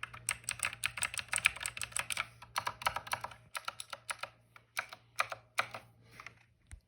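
Typing on a Razer BlackWidow Elite mechanical keyboard with Razer Green tactile, clicky switches: a fast run of crisp key clicks, then slower, spaced keystrokes that thin out toward the end.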